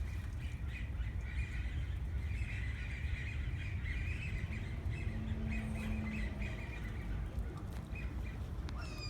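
Birds squawking and chattering in a continuous stream, over a steady low rumble of wind on the microphone.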